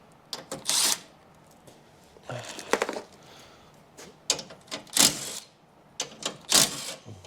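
Metal car parts and hand tools clattering and scraping in a string of short bursts, with quiet gaps between them.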